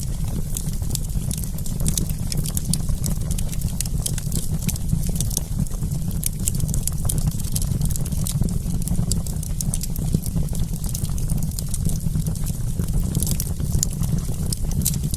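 Wood campfire burning, with many small, sharp crackles and pops over a steady low rumble.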